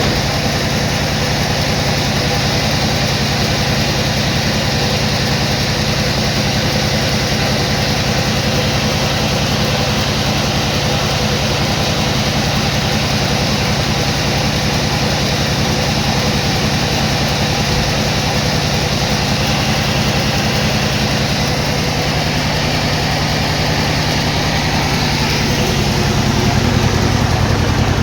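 An engine running steadily at idle with a fast, even firing beat; about two seconds before the end it speeds up and gets louder.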